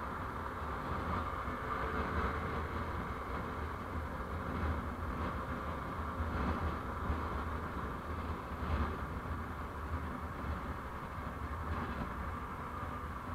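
Steady driving noise from a moving road vehicle: a continuous low rumble under an even hiss of tyres and wind.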